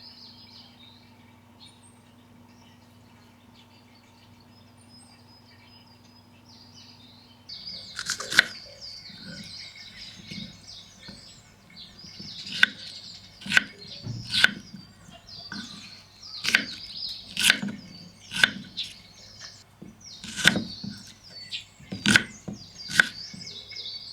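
Birds chirping. From about a third of the way in, a series of sharp wooden knocks or chops, about one a second, each louder than the birds.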